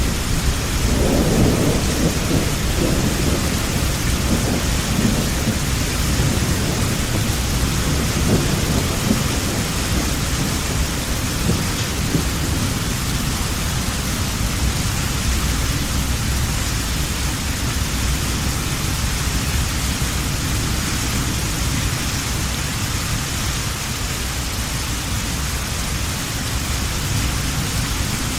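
Heavy rain falling steadily, with a roll of thunder rumbling in the first several seconds and fading away by about ten seconds in.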